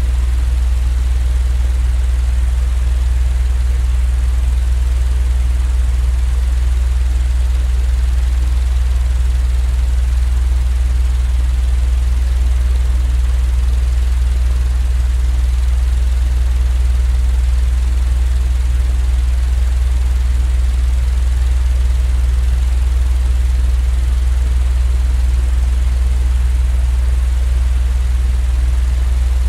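Steady, unchanging low rumbling hum with a faint even hiss above it: a continuous sleep-aid noise track.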